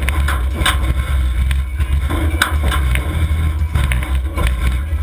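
Demolition derby car engines running hard under a loud, steady low rumble, with several sharp bangs of cars hitting one another scattered through it.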